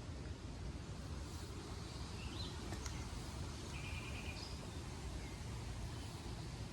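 Outdoor ambience: a steady low rumbling noise with a few faint bird chirps, including a short trill about four seconds in.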